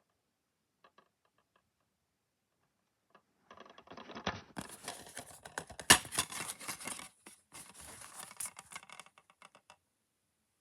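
A DVD case and its packaging being handled: a few faint clicks, then several seconds of dense plastic crackling and scratching with one sharp click about six seconds in, stopping suddenly near the end.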